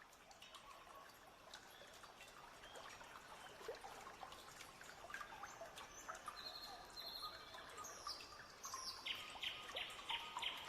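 Small birds chirping and calling over faint trickling water, fading in gradually, with a quick run of about five repeated high notes near the end.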